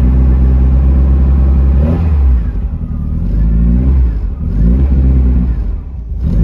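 Beck Spyder's engine running at a fast idle shortly after a cold start, with a few short throttle blips from about two seconds in that raise and drop its pitch.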